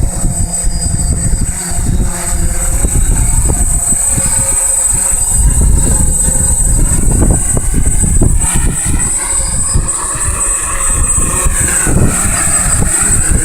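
Strong wind buffeting the microphone in gusts, with a DJI Phantom quadcopter's motors and propellers whining. The whine rises and falls in pitch as the quadcopter works against the gusts, most clearly in the second half.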